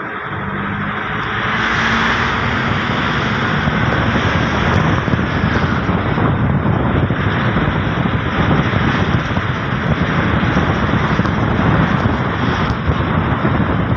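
A moving vehicle's engine and road noise, steady and loud, with wind on the microphone, building up over the first two seconds.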